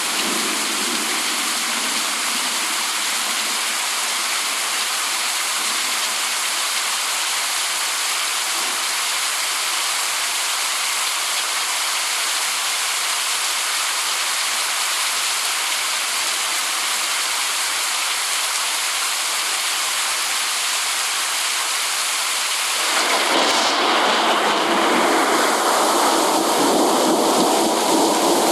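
Steady rain hiss, a dense even downpour. Near the end it turns louder and fuller.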